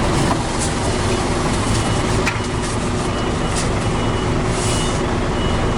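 Truck's diesel engine running steadily at low revs during slow manoeuvring, with a reversing alarm beeping faintly in the second half.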